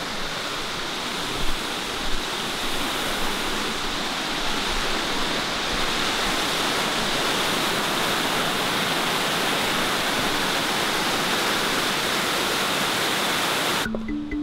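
Steady, even rush of running water, cut off abruptly near the end, where music notes begin.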